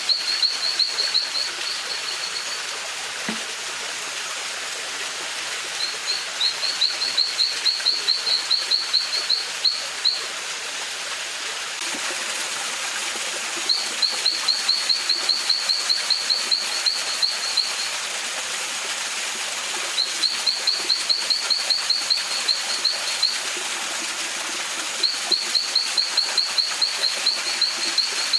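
A bird calling in repeated bouts: fast runs of the same high chirp, about four a second, each run lasting three to four seconds and coming back every five or six seconds. A stream rushes steadily underneath.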